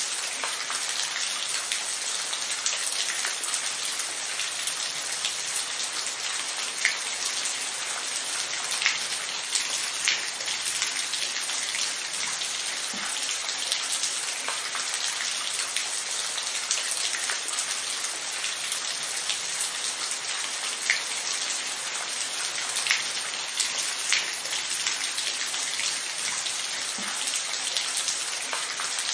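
Steady rain: a continuous hiss of falling rain with individual drops ticking sharply on a surface every second or so.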